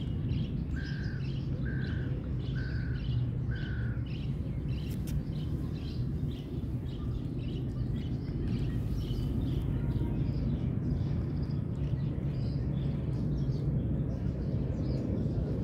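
Small birds chirping throughout, with one bird giving four short, evenly spaced calls in the first few seconds, over a steady low background rumble.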